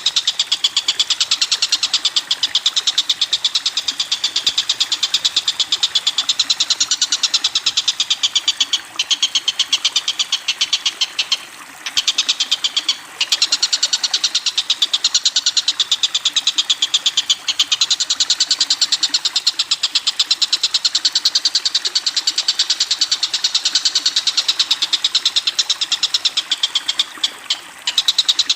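A bird's fast, unbroken rattling chatter of many sharp, high notes a second, broken by short pauses a few times.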